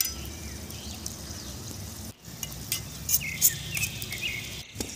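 Prawns and onion-tomato masala sizzling in a small metal kadai over a wood fire. A metal spoon stirs and clicks lightly against the pan a few times in the second half.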